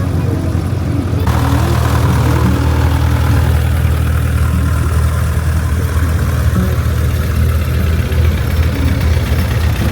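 A tractor engine running steadily at a low, even rumble, with a broad rush of noise joining about a second in.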